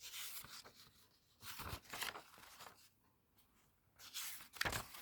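Paper pages of an old comic book being handled and turned, with about four short rustles and quiet gaps between them.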